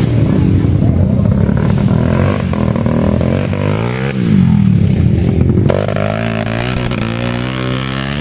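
Motocross dirt bike engines revving. The engine pitch dips and climbs again about four seconds in, then keeps rising and falling.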